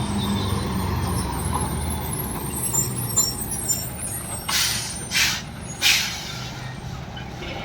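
Heavy diesel truck engine running at low speed, with three short air-brake hisses about two-thirds of a second apart in the second half.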